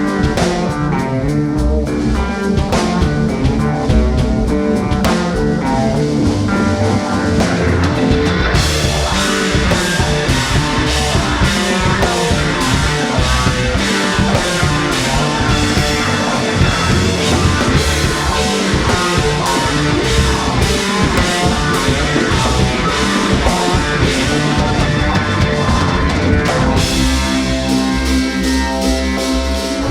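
Live rock band playing an instrumental passage on electric guitar, bass and drum kit. The band kicks in fuller and brighter about eight seconds in and eases back a few seconds before the end.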